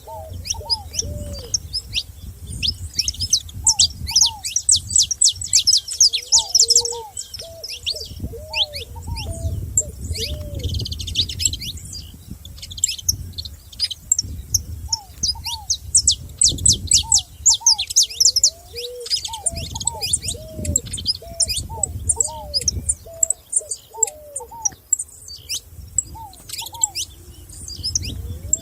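A chorus of wild songbirds: rapid high chirps and trills in dense bursts, over lower short hooked calls repeated throughout.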